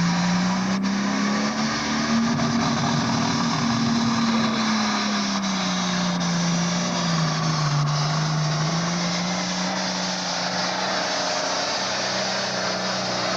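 Modified diesel farm tractor engine at full throttle, pulling a weight-transfer sled. The engine note climbs over the first couple of seconds, sags about seven to eight seconds in as the engine is pulled down under the sled's load, then recovers.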